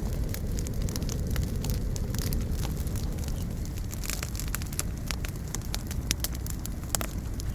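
Campfire burning, with irregular sharp crackles and pops over a steady low rumble of flame or wind.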